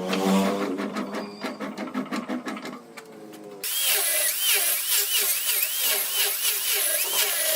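Power tools working wood: first a rhythmic machine run, then an abrupt change about halfway to a brighter, harsher whine that rises and falls about twice a second.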